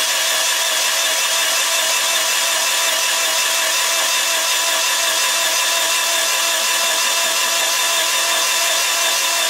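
Electric drill running steadily at one constant speed under load, as used to turn an engine's oil pump while watching for oil pressure.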